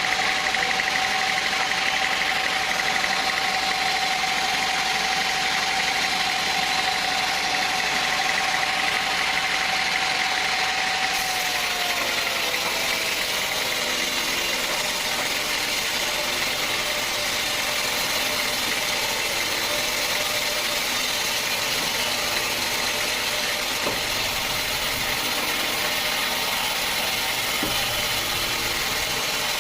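Sawmill machinery running: a continuous mechanical drone with a steady whine that drops slightly in pitch about twelve seconds in.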